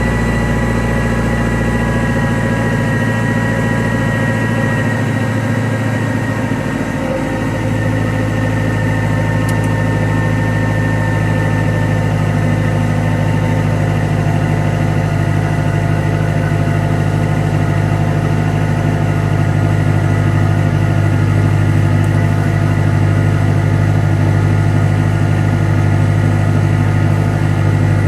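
1991 Honda Civic's D15 single-cam four-cylinder engine idling steadily after a cold start at −25 °C. The note shifts slightly about seven seconds in.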